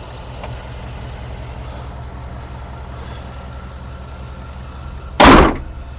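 Ford F-150 pickup's engine idling steadily with an even low pulse. A brief loud rush of noise breaks in a little after five seconds.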